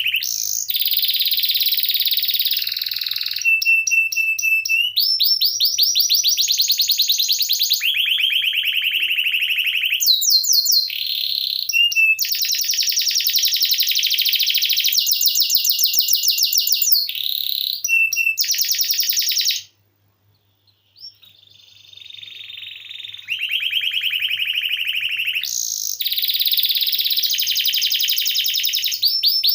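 Domestic canary singing in long rolling trills: a run of phrases of rapid, high repeated notes, each phrase a second or two long, changing pitch from one phrase to the next. The song breaks off in a brief pause a little past two-thirds through, then resumes.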